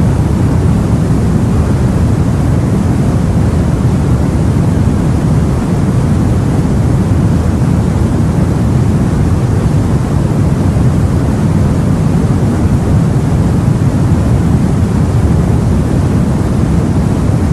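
Steady, deep rumbling noise of the sea and wind, as heard aboard a boat, with no separate wave breaks or other events.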